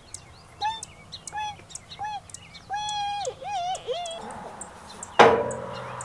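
Birds calling in a string of short whistled calls that bend up and down. About five seconds in comes a sharp metallic clang that rings on.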